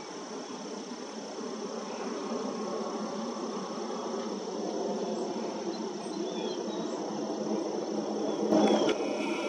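Steady high-pitched insect drone over an even low background rumble, with a few faint chirps and one sharp knock about a second before the end.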